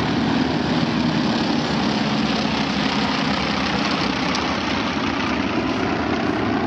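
A formation of propeller-driven warbird trainers (T-6s, T-28s and T-34s) flying over, a steady engine rumble.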